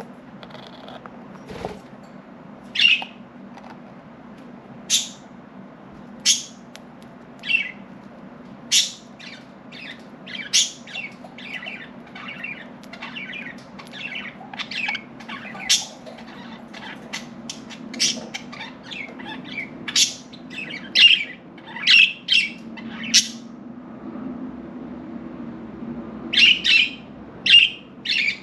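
Budgerigars chirping and squawking in short, sharp calls, one after another and sometimes several a second, busiest through the middle and again near the end, over a faint low hum.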